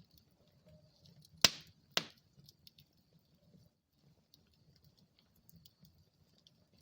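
Wood fire burning in a fireplace: faint steady crackling with two sharp, loud pops about half a second apart, around a second and a half in.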